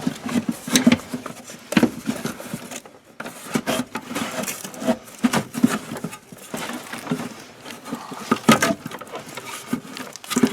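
Irregular clicks, knocks and scrapes of hands working a truck's engine computer and its wiring into place.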